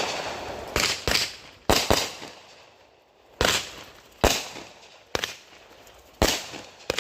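Firecrackers going off: about nine sharp bangs at uneven intervals, some in quick pairs, each dying away briefly.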